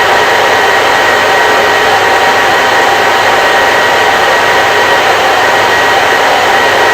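Hair dryer running continuously, a loud, steady rush of air with a faint motor whine on top.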